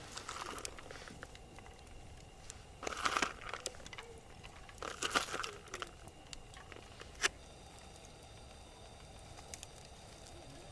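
Crinkling, rustling handling noise in two short bursts, with scattered sharp clicks.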